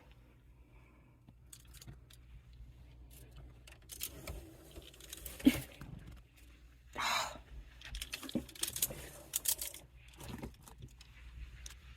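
Clothes rustling and metal clothes hangers clinking and knocking as things are moved around in a closet, in scattered short bursts, with a louder rustle about seven seconds in.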